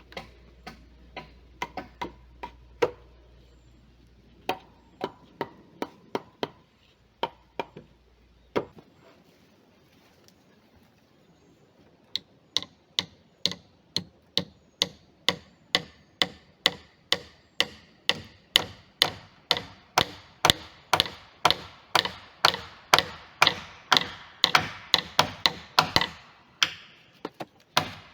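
Hand tool striking wood in cabin building: a few scattered knocks, a pause, then steady rhythmic blows about two to three a second that grow louder.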